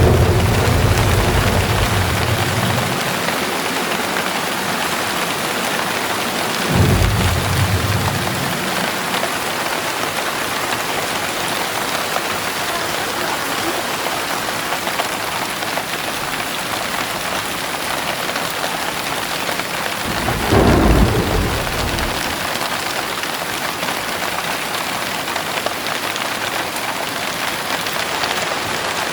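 Heavy rain falling steadily, with claps of thunder. One rumble fades over the first couple of seconds, another comes about seven seconds in, and a louder one a little past twenty seconds.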